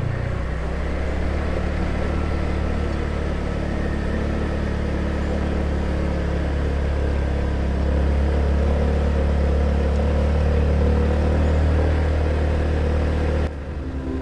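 Small motor scooter running steadily at cruising speed on a smooth road, a constant low engine hum mixed with road and wind noise, a little louder about eight seconds in. It cuts off suddenly near the end.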